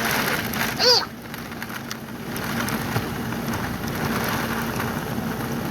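Hard rain pouring down in a steady hiss, with a brief high-pitched voice about a second in.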